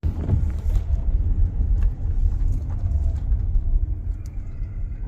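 A vehicle driving over a rough forest dirt track: a steady low rumble with scattered knocks and rattles.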